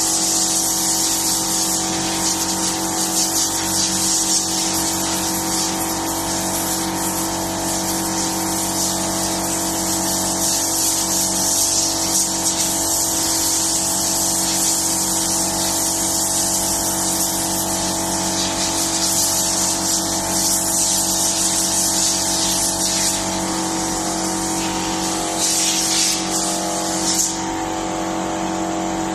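A machine running steadily with a constant hum, under a loud spraying hiss that cuts off suddenly near the end while the hum continues.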